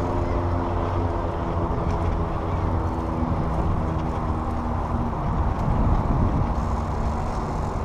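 A GO Transit commuter train's diesel locomotive passing with a steady engine drone that fades away about five seconds in, over wind rumble on the microphone.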